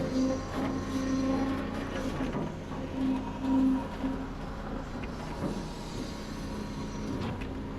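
Diesel engine of heavy construction machinery running steadily, with a droning tone that swells louder twice as the machine works.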